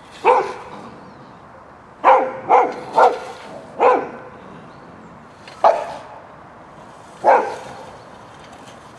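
A kelpie barking: seven sharp barks, a single one at the start, a quick run of four a couple of seconds in, then two more spaced out near the end.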